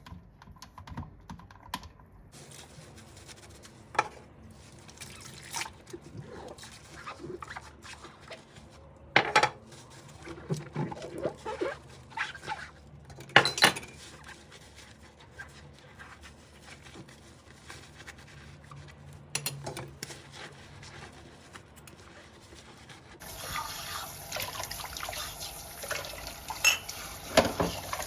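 Dishes and utensils being handled at a kitchen sink, with scattered clinks and knocks. Near the end a tap starts running and water splashes while the clinking goes on.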